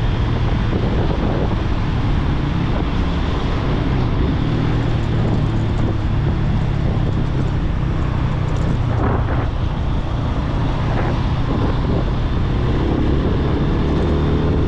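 Yamaha FZ25 motorcycle's single-cylinder engine running under way, with wind noise on the microphone; near the end the engine note rises in pitch as it accelerates.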